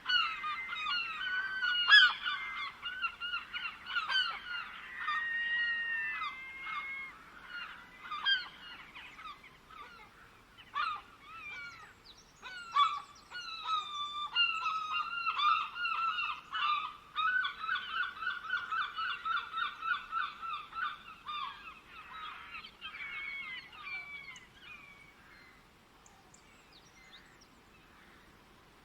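A flock of birds calling: many short, overlapping calls, with a quick run of repeated calls in the middle. The calls thin out and fade away near the end.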